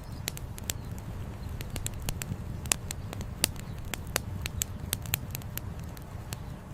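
Wood fire crackling, with irregular sharp pops several times a second over a low steady rumble.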